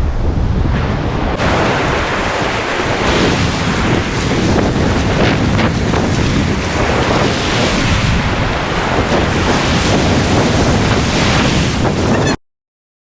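Strong wind buffeting the microphone over the steady noise of lake waves surging and breaking in stormy conditions. It cuts off suddenly to silence near the end.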